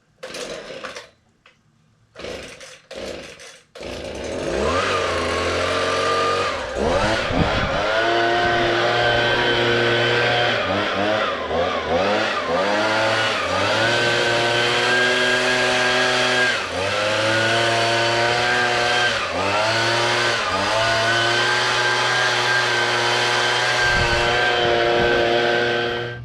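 Chainsaw: a few short bursts in the first seconds, then the engine starts about four seconds in and runs, its pitch dipping and recovering several times.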